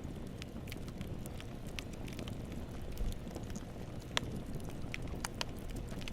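Campfire burning: a steady low hiss and rumble of flames with scattered sharp crackles and pops of burning wood, the loudest pop a little past halfway.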